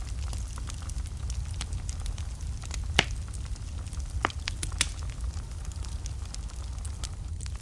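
Wood fire burning in a fireplace: a steady low rumble of flames with scattered sharp crackles and pops, the loudest pop about three seconds in and a few more sharp snaps a second or two later.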